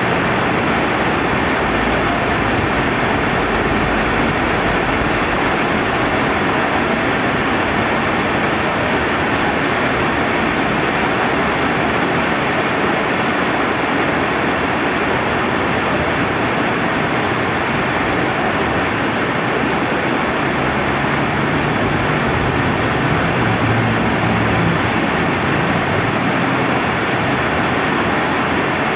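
Steady rain falling beside a flowing river: an even, unbroken rushing noise.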